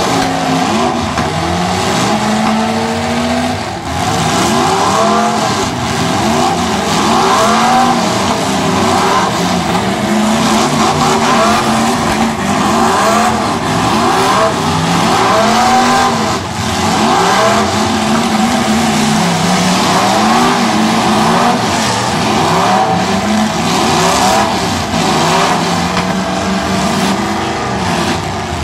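Several demolition derby cars' engines revving hard and dropping back again and again, overlapping, as the cars accelerate around the arena and ram each other.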